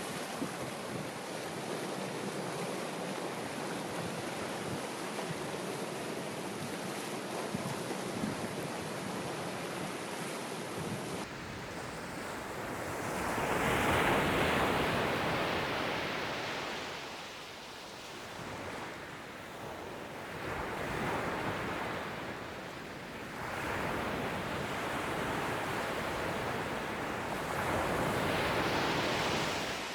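Ocean waves washing onto a shore: a steady wash at first, then about eleven seconds in the sound changes abruptly to waves surging in and drawing back, swelling and falling every few seconds.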